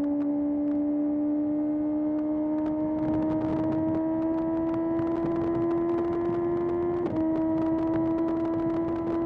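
Kawasaki ZX-6R's 636 cc inline-four engine running under way, its pitch climbing slowly as the bike accelerates. About seven seconds in the note breaks briefly and drops a little, as at an upshift. A rush of wind noise grows from about three seconds in.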